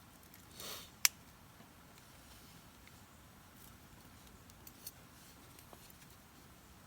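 A short rustle, then one sharp click about a second in, and a few faint ticks around five seconds in, over a quiet background.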